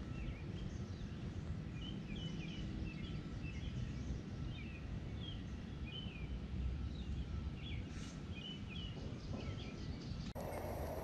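Small birds chirping in short, scattered notes over a steady low outdoor rumble.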